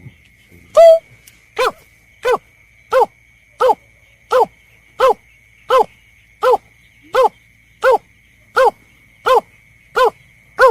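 Bird-lure recording of berkik (snipe) calls: one higher call, then from about a second and a half in a very even run of short, arched, barking notes, about three every two seconds. A faint steady high whine runs underneath.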